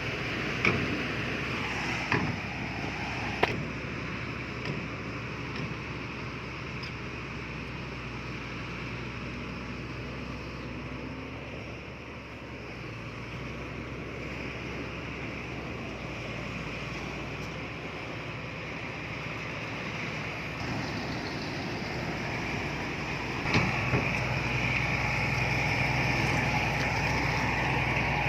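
Heavy diesel earthmoving machinery running steadily, with a few sharp clanks in the first few seconds and again about 24 s in. The engine noise dips in the middle and grows louder near the end.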